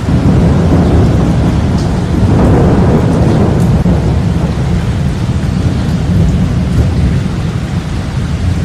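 Thunderstorm: a loud, continuous low rumble with an even rain-like hiss, swelling about two to three seconds in.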